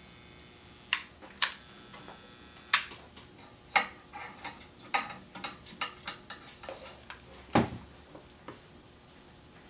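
Irregular sharp metallic clicks and taps of small hand tools and parts being handled on an electronics workbench during wiring and soldering, about fifteen in all, with a duller, lower knock about three quarters of the way through.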